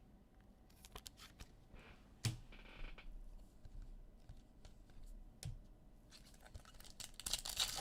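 Trading cards being handled: faint scratchy clicks and cards sliding against each other, with a soft knock about two seconds in and louder rustling near the end.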